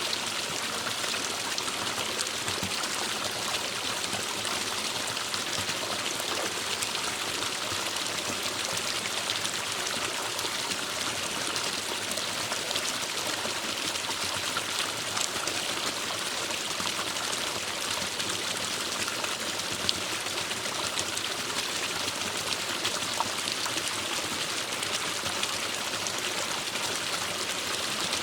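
Forest stream flowing steadily over rocks, a continuous rushing with fine splashing and trickling.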